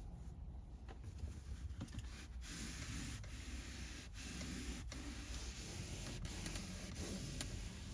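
Microfiber cloth rubbing back and forth over a car's interior surface. The wiping hiss picks up about two seconds in and continues in strokes with a short break about once a second.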